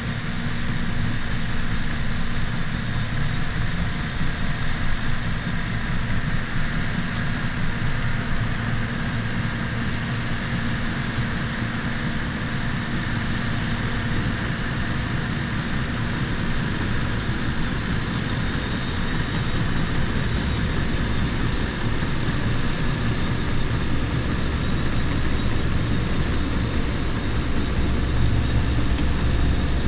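Bulldozer's diesel engine running steadily, heard from on the machine as it strips topsoil.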